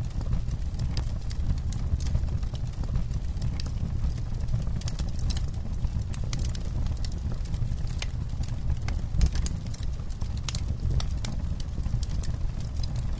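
Campfire burning: frequent, irregular sharp crackles and pops of burning wood over a steady low rumble, with one louder pop about nine seconds in.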